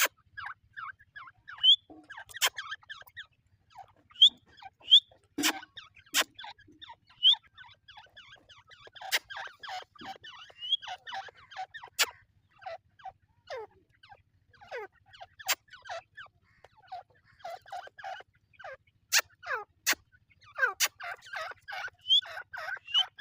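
Several teetar (francolin partridges) calling together: a busy, overlapping stream of short chirps and clucks with a few short rising notes, and sharp clicks scattered through.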